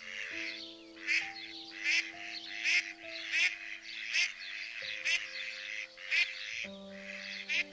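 An animal calling repeatedly, short buzzy calls about every three-quarters of a second, over calm music with long held notes.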